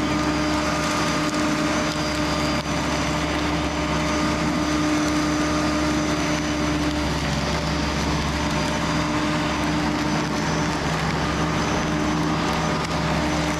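Flymo electric lawn mower's motor running at a steady pitch, a constant hum with a high whine, as it is pushed back and forth over the grass.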